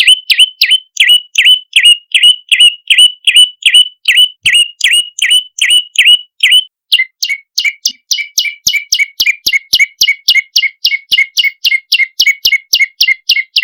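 A prenjak lumut calling non-stop: a rapid series of sharp, falling chirps, about three a second. About seven seconds in it switches to a faster run of notes that drop lower.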